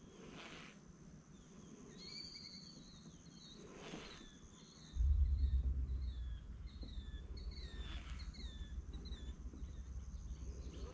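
A bird calling in a quick series of short, falling chirps over a thin, steady high insect-like buzz that stops about halfway through. At the same point a steady low rumble sets in and becomes the loudest sound.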